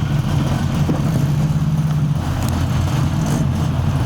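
Car engine running under way with road noise, heard from inside the cabin. The engine note drops about two seconds in and rises again near the end.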